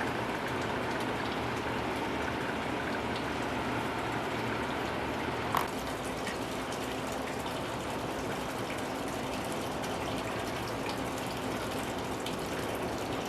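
Steady rushing water with a low hum underneath, and one short sharp knock about five and a half seconds in.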